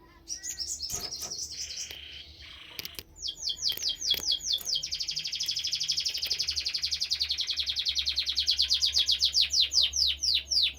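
A canary singing: a short burst of fast high notes, then a long trill of quick downward-sweeping notes that packs into a rapid roll and slows again near the end. A few sharp clicks are heard in the first seconds.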